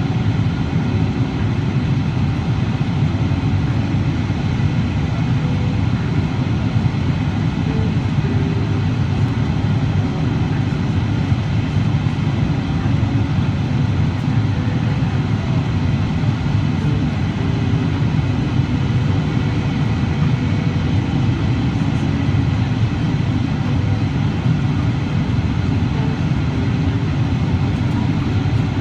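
Steady low rumble of a Boeing 777-300ER heard from inside the cabin: engine and airflow noise with no distinct events.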